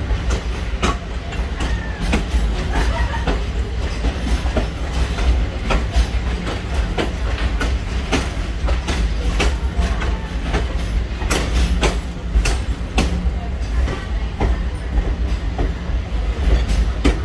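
Railroad car rolling along the track at low speed: a steady low rumble with irregular clicks and knocks from the wheels passing over the rails, a clickety-clack.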